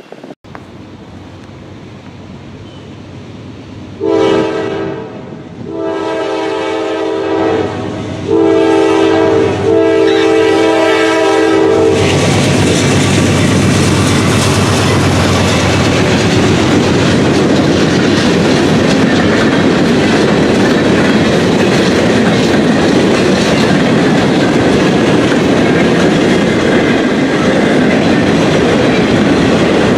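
Diesel locomotive horn sounding two long blasts, a short one and a long one, the grade-crossing signal. The train then passes close by with loud, steady rolling noise and clickety-clack of wheels over rail joints.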